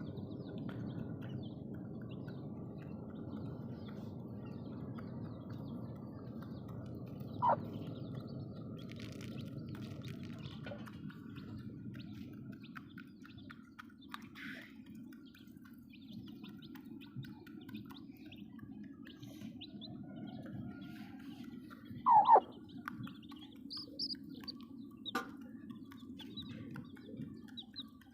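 Aseel chickens and chicks calling: scattered high peeps, with two short, louder calls that fall in pitch, one about a third of the way in and one about three quarters of the way in, over a steady low background hum.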